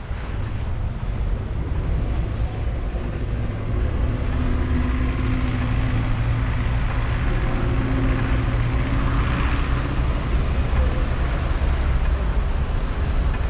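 Ninebot One Z10 electric unicycle rolling over snow: steady tyre noise under low wind rumble on the microphone, with a faint hum that comes and goes in the middle.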